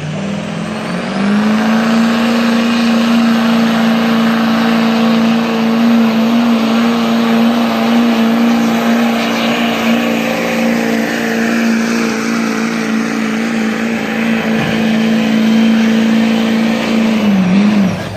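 Diesel truck engine held at high revs under full load while pulling a sled, with a high whistle above it; about a second in it climbs to a steady pitch, and near the end it drops and cuts off as the pull ends.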